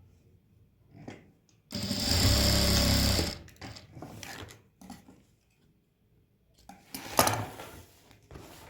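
Sewing machine stitching in one short run of about a second and a half, then a second brief burst near the end.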